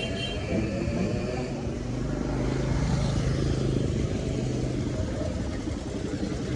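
Motorcycle engines running in a crowd of bikes, with a steady low engine drone that grows a little louder from about two seconds in until about five seconds.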